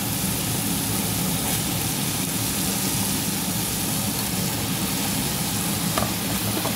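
Onion-tomato masala frying in an aluminium pot, a steady sizzle with a low hum underneath, as slices of ridge gourd are dropped in by hand.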